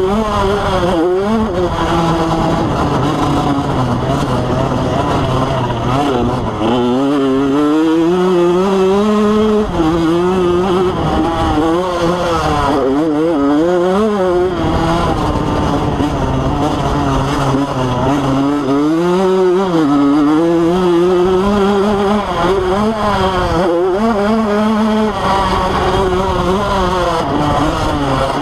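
Motocross dirt bike engine racing at full throttle, its pitch rising and falling over and over as it accelerates, shifts and backs off.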